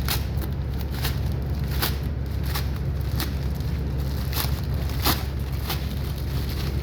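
Delivery parcel packaging being opened by hand: irregular crinkling and crackling snaps, about one or two a second, over a steady low hum.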